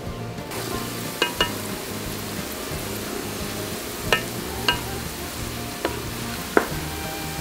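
Sliced garlic and shallots sizzling in hot oil in a metal wok. The sizzle starts about half a second in, and a metal spatula clinks against the wok about six times. Background music plays underneath.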